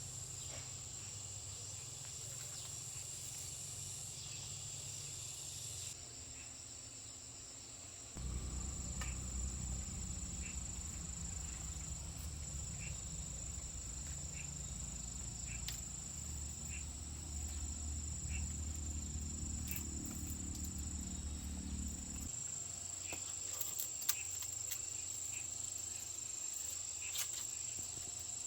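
Insects, crickets among them, keeping up a steady high-pitched drone. A low rumble comes in about eight seconds in and drops away about twenty-two seconds in, and scattered light clicks sound throughout.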